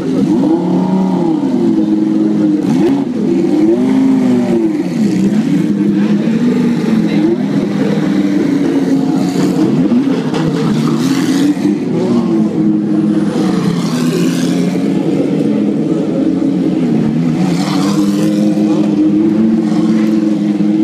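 Race cars at full speed passing one after another, several engines overlapping. Their engine notes rise and fall as each car goes by and shifts gear.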